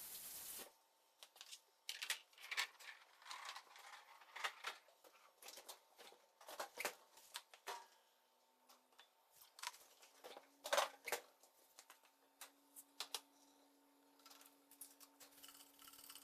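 Scattered light clicks and knocks of kitchen items being handled, irregular and quiet, with a faint steady hum coming in about ten seconds in.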